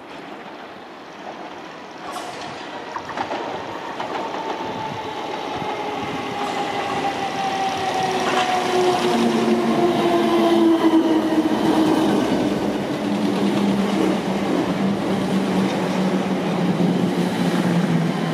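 Electric passenger train approaching, growing steadily louder over about ten seconds, its motor whine made of several tones sliding slowly down in pitch over the rumble and rattle of wheels on rail.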